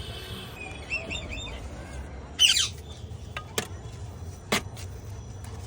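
Kites calling: a few short chirps, then one loud, wavering squawk about halfway through, followed by a few sharp knocks.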